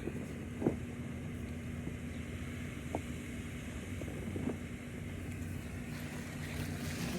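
A motor running steadily, a low even hum with a held tone, with a few faint knocks over it.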